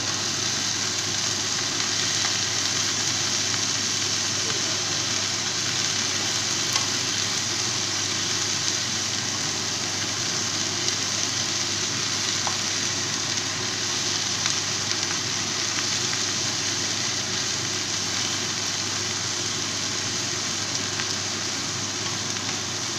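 Shredded cabbage and smoked ribs frying in a nonstick pan, a steady sizzle, turned now and then with a wooden spatula.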